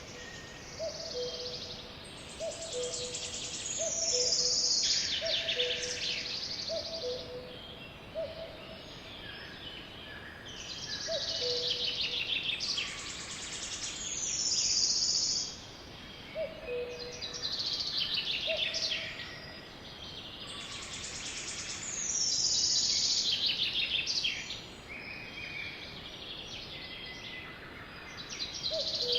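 Birds singing: a loud, high song of falling whistles and rapid trills comes in phrases every few seconds. Under it runs a steady series of low two-note hoots, about one pair a second.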